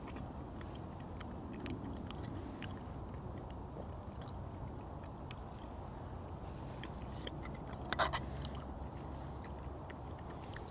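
A man biting and chewing charred roasted pepper and chicken off a fork, with scattered small clicks over a steady low background hiss. A short, sharper cluster of clicks about eight seconds in is the loudest moment.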